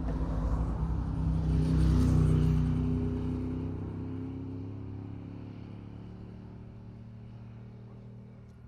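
A road vehicle passes close by. Its engine hum swells to a peak about two seconds in, then fades away slowly.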